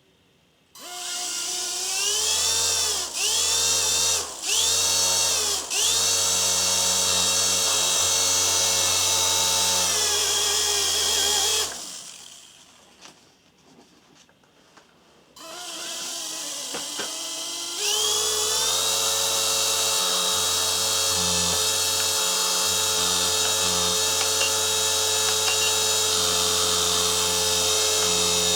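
WLToys V911 micro RC helicopter's electric motors and rotor whining. The whine starts about a second in and briefly drops three times in the first few seconds as the throttle is eased. It cuts out for about three seconds near the middle, then spins back up and steps up to a steady high whine.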